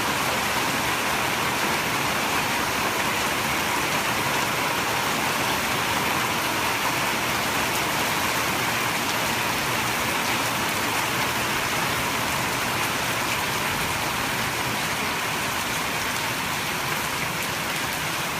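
Rain falling steadily, a dense, even hiss that holds without let-up.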